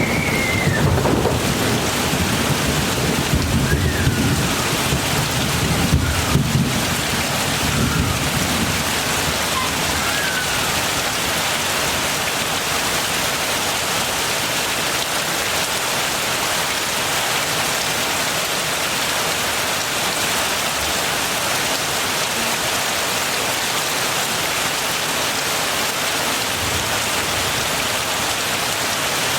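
Heavy rain falling steadily. A low roll of thunder rumbles under it through roughly the first eight seconds and dies away, leaving the rain alone.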